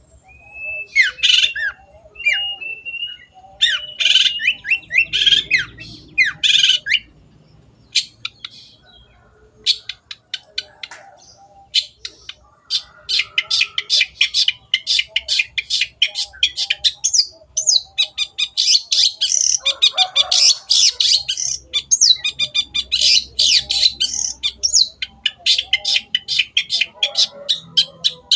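Long-tailed shrike (cendet) singing: harsh squawks and short whistled glides, then, from about twelve seconds in, a long fast chattering run of rapidly repeated notes.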